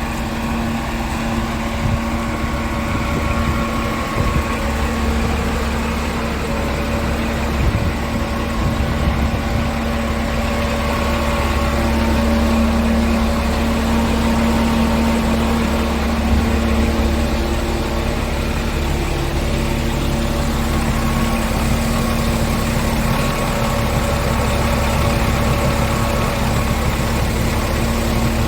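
Scania R tractor unit's diesel engine idling steadily, with a constant low hum.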